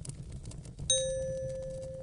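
A single bell-like chime note struck about a second in and ringing on as it slowly fades. Under it, a fireplace crackles with faint ticks over a steady low rumble.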